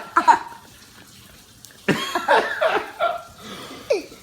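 Indistinct human voice, heard briefly at the start and again from about two seconds in.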